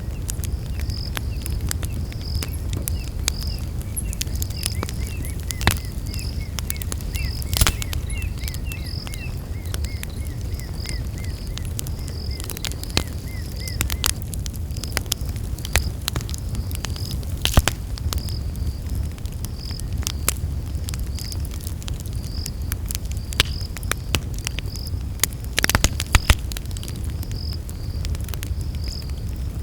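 Campfire burning with a steady low rumble and scattered sharp crackles and pops, a few louder snaps standing out. Night insects chirp over it: one high, evenly repeating chirp throughout, and a second, faster chirping run lower in pitch during the first half.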